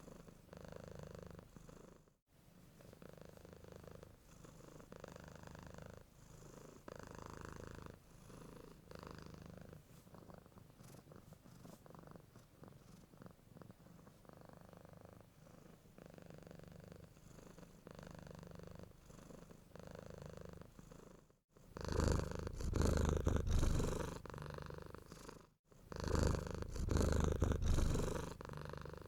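Domestic cat purring steadily close to the microphone. The purring turns much louder in the last third, with brief abrupt dropouts.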